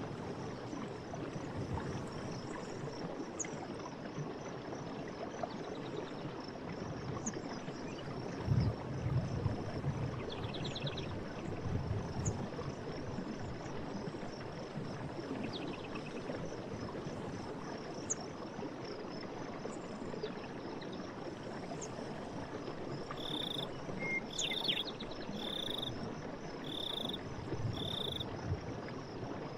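Forest stream running steadily under a continuous high-pitched insect chorus. Near the end, a bird gives five short calls about a second apart.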